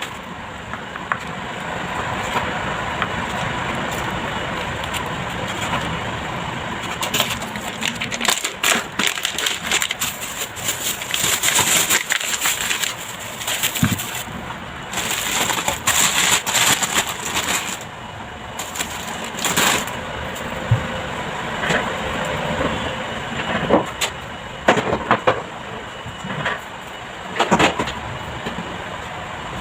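Household cleaning noises: an uneven run of scraping, rustling and clattering with frequent sharp clicks and knocks.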